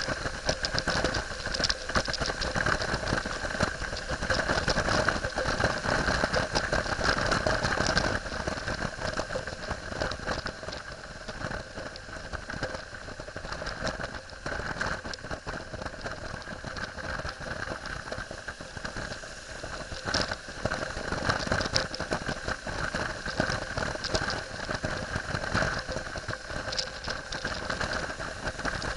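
BMW F800GS parallel-twin engine running while the motorbike is ridden along a road, heard through a helmet-mounted camera mixed with wind noise. It is louder for the first eight seconds or so, eases off in the middle and picks up again later.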